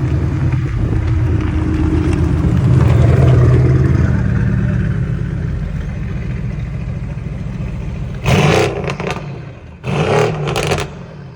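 Mercedes-AMG twin-turbo V8 revving up, then easing off with a turbo whistle. Near the end come two loud bursts of noise, each under a second.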